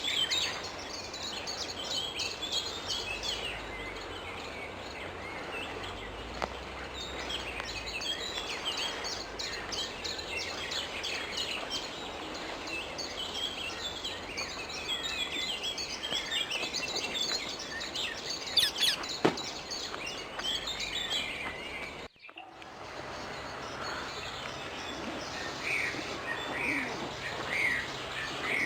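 Wild rose-ringed parakeets calling in a dense run of short, shrill chirps over steady outdoor background noise. The sound cuts out briefly about three-quarters of the way through, then the chirping resumes.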